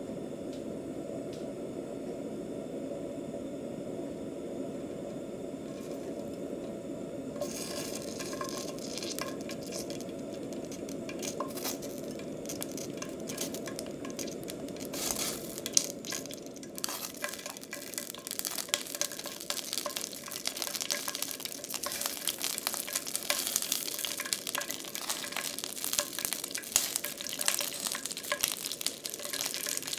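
Bell pepper pieces frying in olive oil in a stainless steel pan: a crackling sizzle sets in about a quarter of the way in and grows denser toward the end, over a low steady hum. A few louder clicks come about halfway.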